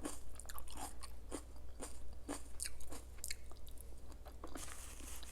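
Close-miked chewing of crunchy food: irregular crisp crunches, about two a second, over a low steady hum.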